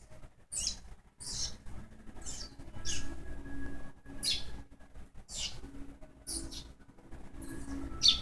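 Baby bird cheeping: short, high, falling chirps about once a second.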